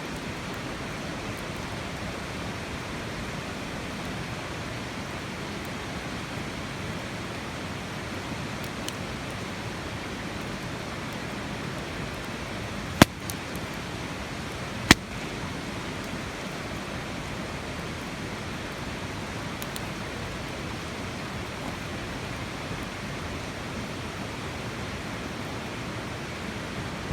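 Steady rushing noise throughout, with two sharp pops about two seconds apart midway: a wood campfire crackling.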